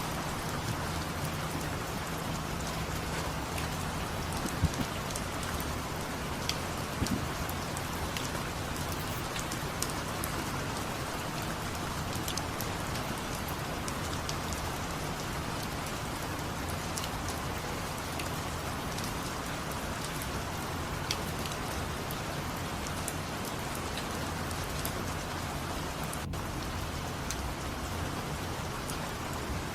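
Steady rain falling, with scattered drops ticking on a surface and a few sharper taps about five and seven seconds in.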